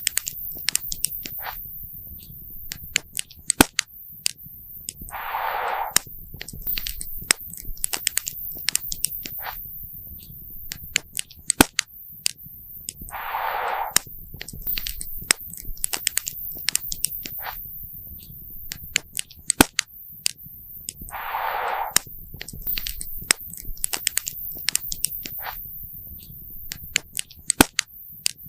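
Campfire crackling, with frequent sharp pops and snaps over a low rumble. A short hiss comes three times, about eight seconds apart.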